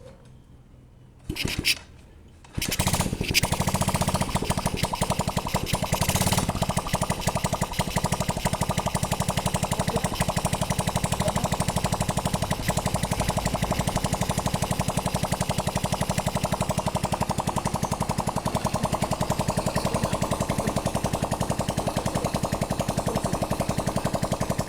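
Yamaha Crypton R motorcycle engine being started: a short burst about a second in, then it catches and runs steadily with a rapid, even exhaust beat. The engine has just been rebored and fitted with a new piston to cure a knocking noise.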